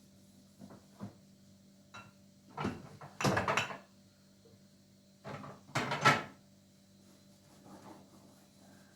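A few light knocks, then two louder scraping, rattling noises, each about a second long and a few seconds apart.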